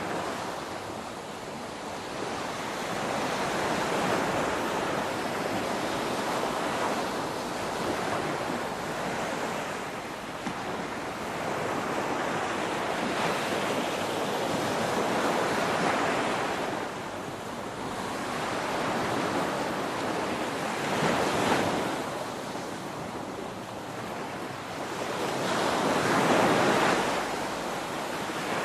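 Ocean waves breaking on a beach, a continuous rushing surf that swells and ebbs every few seconds, with the loudest breakers about three-quarters of the way through and again near the end.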